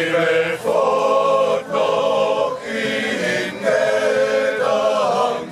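A group of voices singing a German folk song together in slow, held notes.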